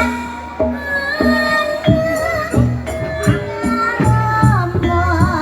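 Traditional Javanese ebeg music: drum strokes at a steady pulse under ringing pitched percussion notes, with a wavering melody line coming in near the end.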